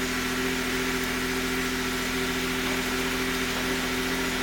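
Honda N-BOX kei car's 660 cc three-cylinder engine idling with a steady, even hum.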